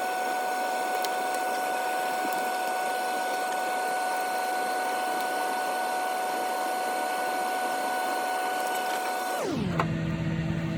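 A steady machine hum, sped up by fast-forwarded footage into a high, even whine, with a few faint clicks of tool work. About nine seconds in, the pitch drops abruptly to a low steady hum as playback returns to normal speed.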